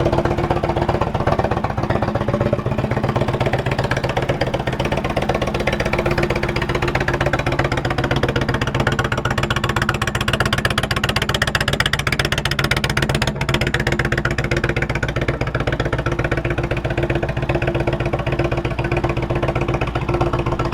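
Indian Thunder Stroke 111 V-twin engine of a 2017 Roadmaster Classic idling steadily, a rapid, even pulse.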